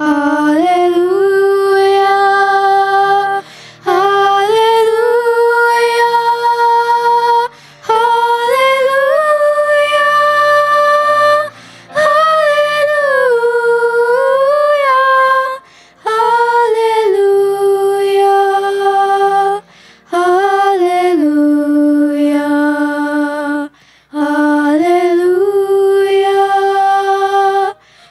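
Chorus singing in unison, seven long held phrases of about four seconds each with short breaths between.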